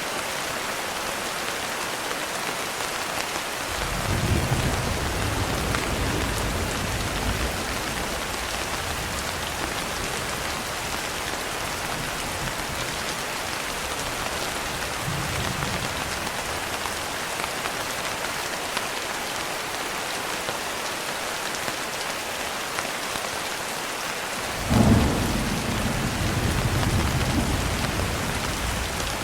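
Steady rain falling on a window, with thunder twice: a rolling rumble about four seconds in, and a sharper crack followed by rumbling near the end.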